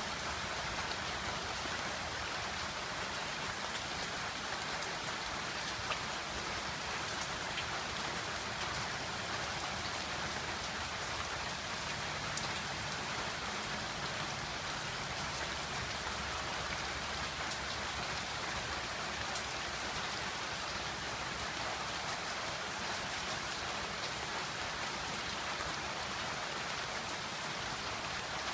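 Steady rain falling: an even hiss of water, with a few sharper drops ticking now and then.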